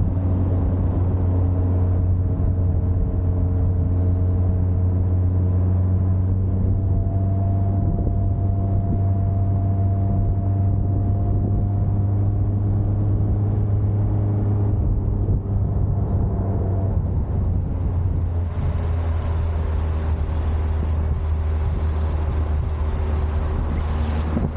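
Nissan Skyline DR30 RS Turbo's turbocharged four-cylinder engine running at steady cruising revs, a constant drone whose pitch shifts only a little. About three-quarters of the way through, wind rush on the microphone grows louder.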